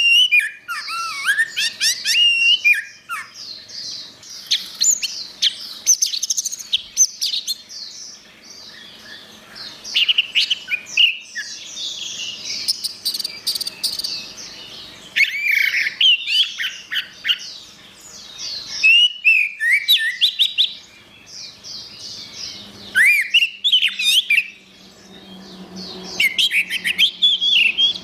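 Orange-headed thrush singing a long, varied song of rapid whistled and chattering phrases, in bursts with short pauses between them.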